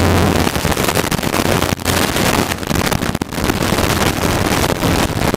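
Piston-engined training helicopter heard from inside the cockpit: a steady, loud rotor and engine rumble with wind noise, briefly dipping a few times.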